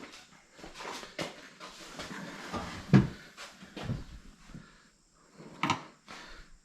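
Hand tools clinking and knocking on a carburetor fuel fitting as it is tightened to stop a fuel leak: a series of irregular knocks and clinks, the loudest about three seconds in, with no engine running.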